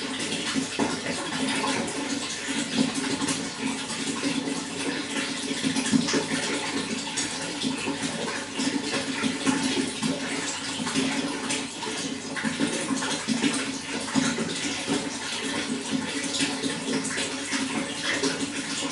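Running water flowing steadily, an even rush with a dense patter of small splashes.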